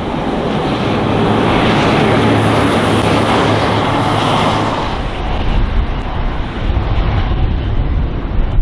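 V/Line VLocity diesel multiple unit passing at speed: engine drone and wheel-on-rail noise swell to a peak about three seconds in, then fade as the train runs away. In the second half a gusty low rumble of wind on the microphone takes over.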